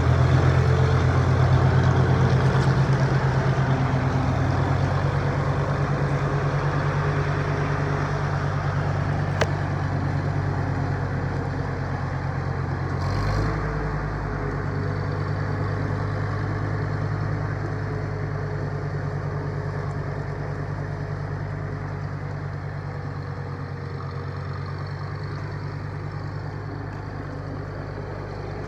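Farmall M tractor's four-cylinder engine running steadily, its low firing note slowly getting quieter. There is one sharp click about nine seconds in, and a brief change in the engine note around thirteen seconds in.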